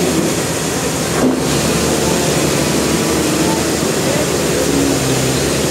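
Sawmill machinery: an engine running steadily under loud, even mechanical noise, with a brief knock about a second in.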